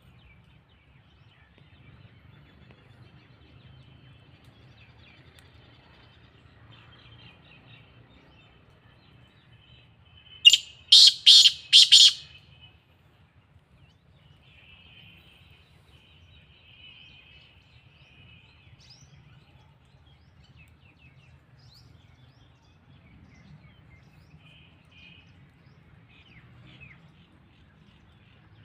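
Black francolin calling: one loud, harsh run of four quick notes about ten seconds in, over faint chirping.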